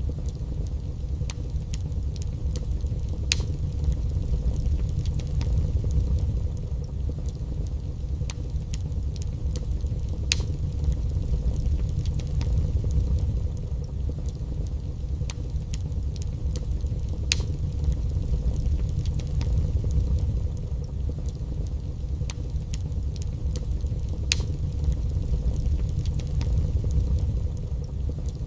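Wood fire burning in a fireplace: a steady low rumble of the flames with sharp, scattered crackles and pops every second or two.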